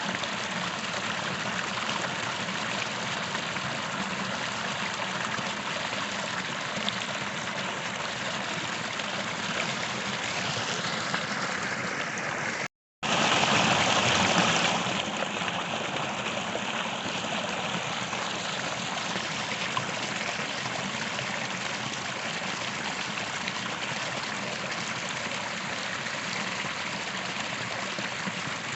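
Small creek flowing over rocks, a steady rushing and trickling of water. It cuts out for a moment about halfway through, then comes back a little louder for a second or two before settling again.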